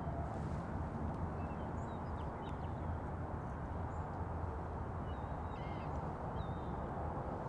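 Steady low background rumble with several faint, short bird calls and chirps scattered through it, the clearest cluster about two-thirds of the way in.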